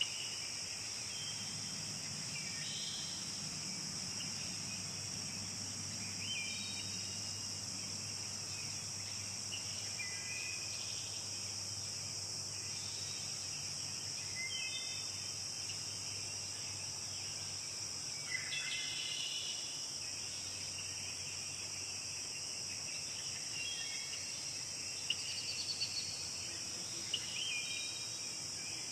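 A steady, high-pitched insect chorus, such as crickets, runs throughout, with short bird chirps breaking in every few seconds.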